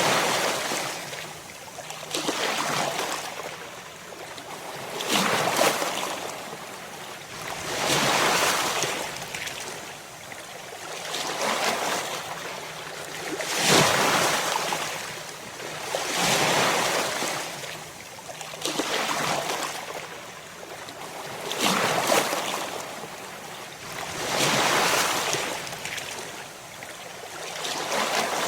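Ocean waves crashing one after another, each wash of surf swelling and fading about every three seconds.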